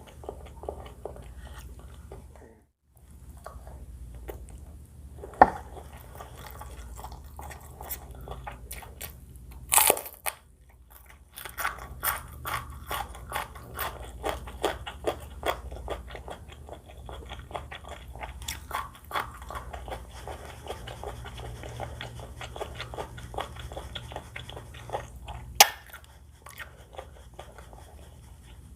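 Close-miked eating: crunchy chewing and biting of fried chili and rice noodles, with quick crackly crunches thickest through the middle and a few sharp louder clicks, the loudest near the end.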